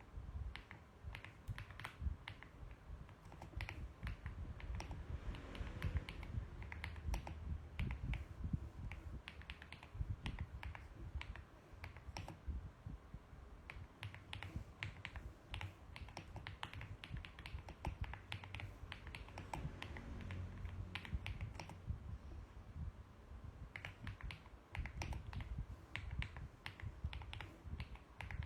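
Typing on a mechanical keyboard: a fast, uneven run of key clicks with brief pauses between bursts.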